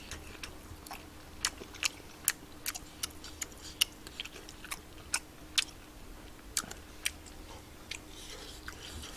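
Close-up chewing of spicy rice cakes: irregular sharp wet mouth clicks and smacks, about two a second, over a faint steady hum.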